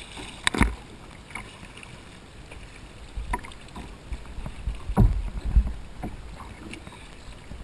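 Knocks and thumps on a kayak, a few scattered strikes with the two loudest about five seconds in, over a low rumble of wind on the microphone.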